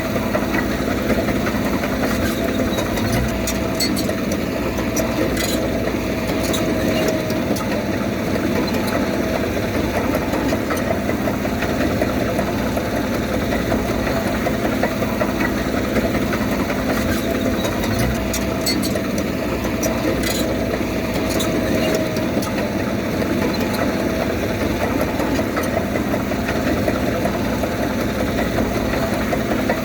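Heavy diesel machinery engine running steadily, its note shifting slightly a few seconds in and again past the middle, with scattered sharp clicks around those moments.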